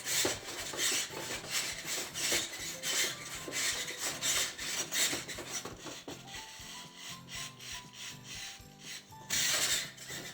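A stiff brush scrubbing and scraping soot in a rapid run of rasping strokes during stove and chimney sweeping, thinning out about six seconds in.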